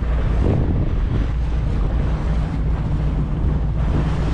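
Motorboat running at speed over choppy water: a steady low engine drone under loud wind buffeting the microphone and the rush of water against the hull.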